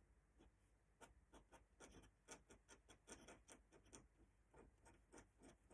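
Faint, irregular ticks and scratches of a pen drawing in ink on paper, several small strokes a second.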